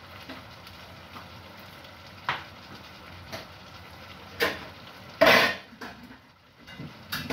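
Fish sizzling in a cooking pot, a steady hiss broken by a few sharp knocks and clatters, the loudest just past five seconds in.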